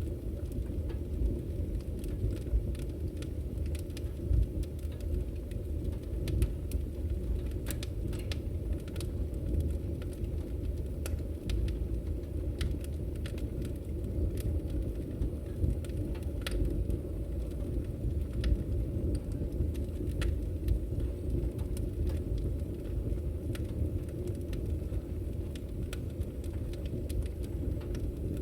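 Wood fire burning in a fireplace: a steady low roar with irregular sharp crackles and pops of the firewood scattered throughout.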